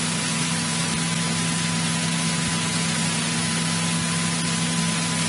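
Steady hiss of the cockpit radio and intercom audio with the low, even drone of a 1963 Cessna 172E's Continental O-300 engine running at low power beneath it, and a faint steady whine on top.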